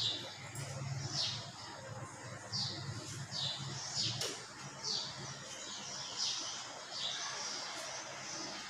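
A bird chirping over and over, a short falling high call roughly once a second at uneven intervals, over a low steady hum.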